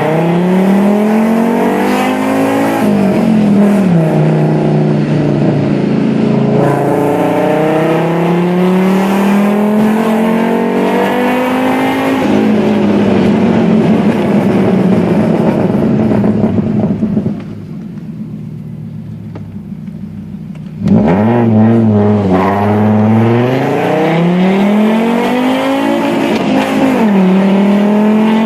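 Fiat Marea 2.4 20v five-cylinder engine with a full 2.5-inch aftermarket exhaust, loud, pulling up through the revs and dropping back several times, as at gear changes. A much quieter stretch of about four seconds past the middle, then loud again with the revs climbing.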